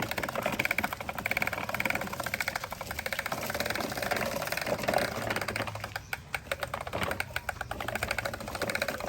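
Small electric motor and plastic gearbox of a toy construction vehicle running, a steady whir with very rapid clicking.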